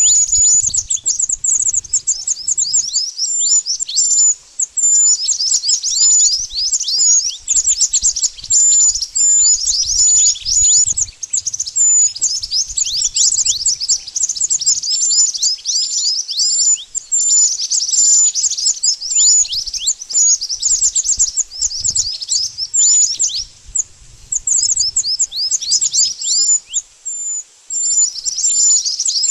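Rapid, high-pitched chirping of the songbird known in Indonesia as 'mantenan', a continuous stream of short falling notes with a few brief pauses, used as a lure call for trapping birds.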